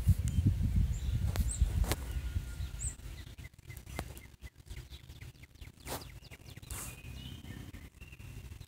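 A few short, high bird chirps over outdoor background noise, with a low rumble in the first three seconds and a few scattered clicks.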